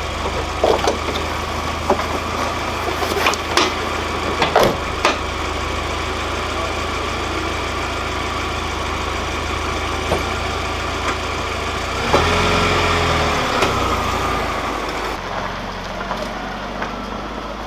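Vehicle engine running steadily at idle, with scattered sharp clicks and knocks over the first few seconds. It grows louder for a couple of seconds about twelve seconds in, then settles again.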